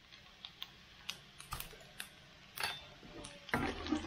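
Chopped garlic and ginger frying in oil in a wok, crackling with scattered sharp pops, a few a second, as they turn crisp. Near the end a spatula stirs and scrapes the wok.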